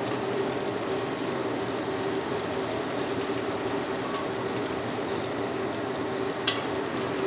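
Terasi (shrimp paste) sizzling as it fries in a little oil, an even, steady sizzle with a low hum beneath it and one short click near the end.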